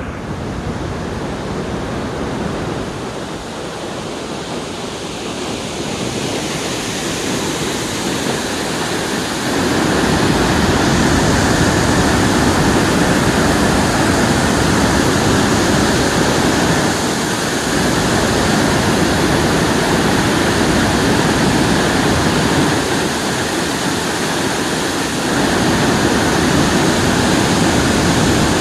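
Water rushing from a dam, a steady loud noise of falling water that gets louder about ten seconds in.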